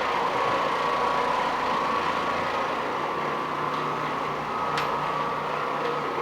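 Electric carpet-cleaning machine running steadily on carpet, a constant motor noise with a steady whine on top. A brief high click about five seconds in.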